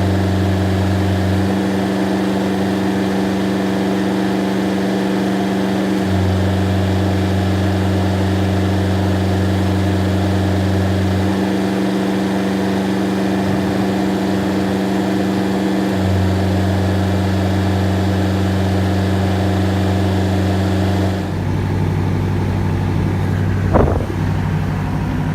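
Kubota GL367 tractor's diesel engine running steadily with the cab air conditioner on, sped up to double speed. A low hum drops out and returns a few times. Near the end the sound shifts, and a single sharp click follows.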